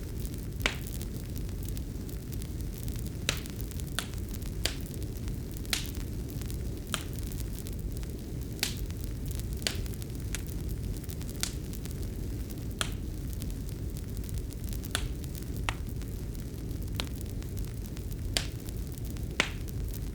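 Fireplace fire crackling: irregular sharp pops, about one a second, over a steady low rumble of the flames.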